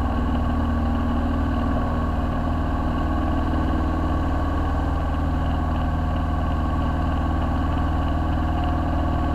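Piper PA-22 Tri-Pacer's engine and propeller at full power on the takeoff roll, a steady drone heard inside the cabin.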